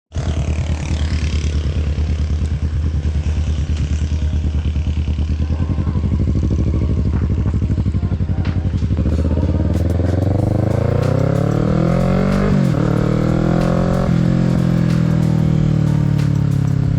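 Kawasaki Z650's parallel-twin engine running at low revs, then accelerating from about nine seconds in, its pitch rising with a brief dip for a gear change about three and a half seconds later, another shortly after, then holding steady.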